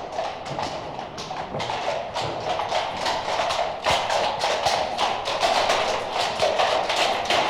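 Horses' hooves clip-clopping at a walk, a steady clatter of sharp hoofbeats growing louder as they approach.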